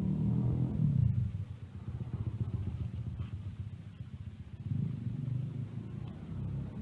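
An engine running with a low, pulsing rumble, louder in the first second or so and again about five seconds in.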